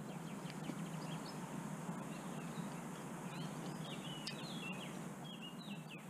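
Small birds chirping in short, quick notes, most of them in the second half, over a steady outdoor background hiss.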